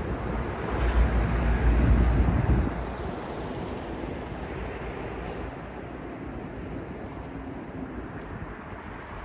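A large road vehicle passes close with a deep rumble that fades about three seconds in, leaving a steady hum of city street traffic.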